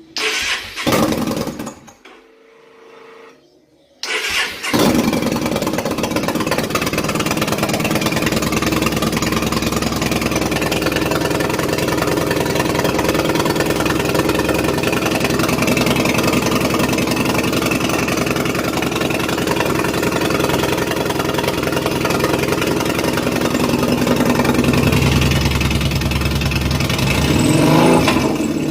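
Yamaha Bolt XV950's air-cooled V-twin engine: two short bursts of sound and a pause, then the engine starts about four seconds in and runs steadily, getting louder near the end.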